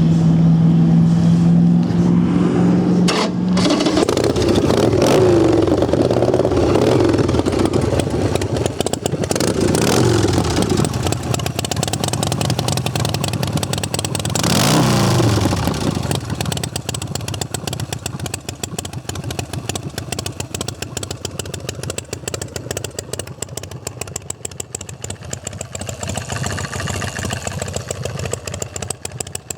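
A 113 cubic-inch RevTech V-twin in a custom hard-tail chopper with wrapped exhaust being cranked and starting about three seconds in. It is revved up and down several times, with a last rev near the halfway point, then settles to a steady idle.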